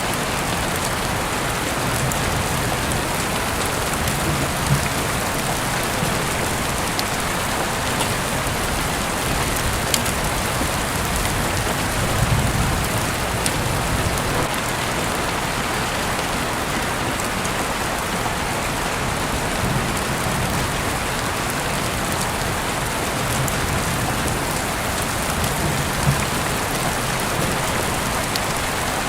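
Heavy rain falling steadily, heard through an open window, with scattered sharper drop hits standing out now and then.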